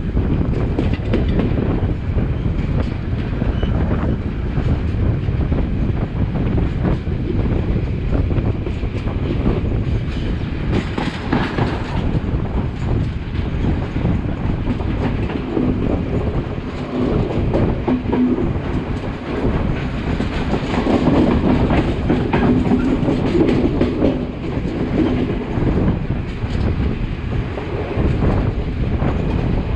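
Sri Lanka Railways passenger train running steadily, heard from the open side of a moving carriage: a continuous rumble of wheels on rail with the clickety-clack of rail joints.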